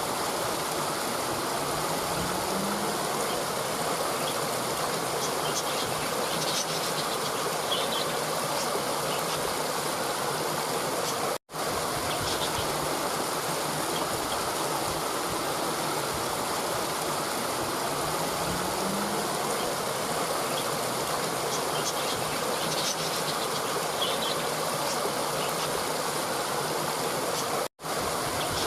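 Steady rushing of a stream or small waterfall, with a few faint bird chirps. The sound drops out for an instant twice, about 16 seconds apart.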